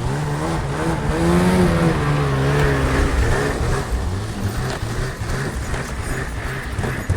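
Engine running; it revs up about a second in, then settles back to a rough, uneven rumble.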